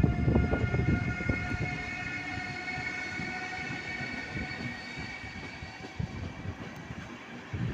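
A train moving through a station: a low rumble and clatter of wheels that fades over the first few seconds, with a steady high-pitched squeal held above it.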